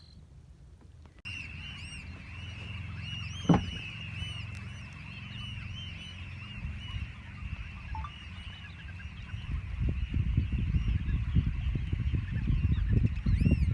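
A large flock of geese calling together: a dense, continuous chorus of many overlapping honking calls that starts abruptly about a second in. A single sharp knock comes about three and a half seconds in, and low rumbling noise builds up under the calls in the second half.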